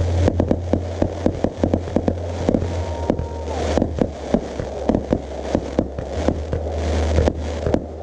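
Fireworks bursting and crackling: a rapid, irregular string of sharp cracks and pops over a steady low hum.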